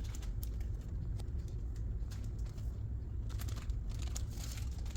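Light rustling and scattered soft clicks as flour mix is added to a mixing bowl, over a steady low hum.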